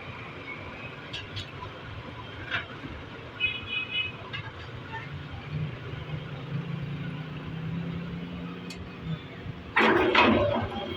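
A heavy engine running steadily with a low hum, with scattered knocks and a brief high pulsing tone a few seconds in. A loud burst of clattering noise comes near the end.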